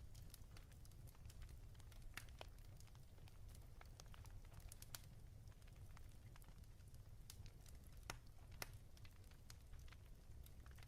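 Fireplace crackling faintly: scattered, irregular pops and snaps, a few of them sharper than the rest.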